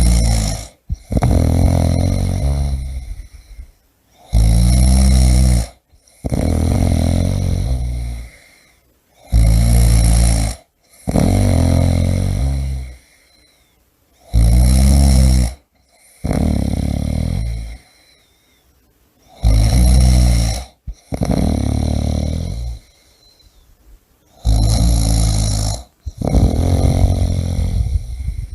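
A person snoring steadily, about six breaths, each a short, loud snore followed straight away by a longer, softer rumbling breath, with a brief quiet pause before the next, roughly every five seconds.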